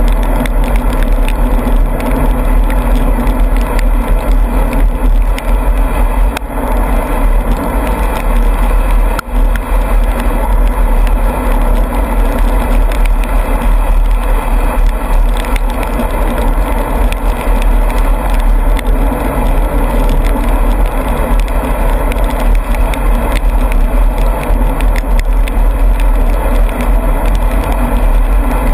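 Bicycle being ridden on a wet road in the rain: steady tyre and road noise under a heavy, continuous wind rumble on the microphone.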